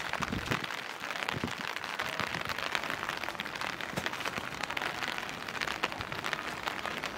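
Rain falling steadily: a dense, even run of many small drop impacts.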